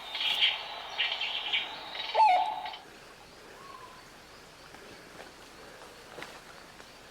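Forest birds calling: rapid high chirps and trills for the first second or so, then a single short, lower hooting note about two seconds in. After that only a faint background remains, with an occasional soft call.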